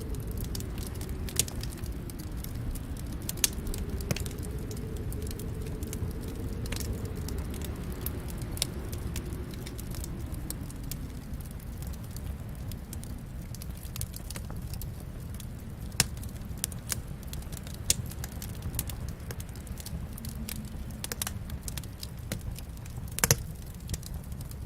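Wood fire burning in a fireplace: a steady low rumble of flames with sharp crackles and pops at irregular intervals, a few louder snaps standing out, with a double pop about 23 seconds in.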